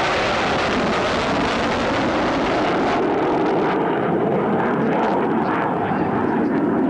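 An aircraft passing in flight, its loud engine noise falling slowly in pitch as it goes by.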